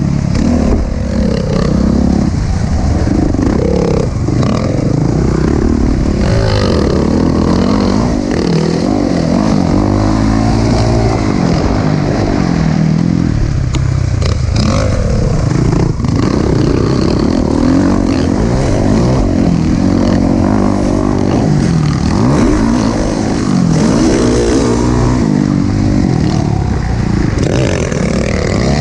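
Motocross dirt bike engine revving hard, its pitch climbing and dropping again and again as the throttle opens and closes around the track.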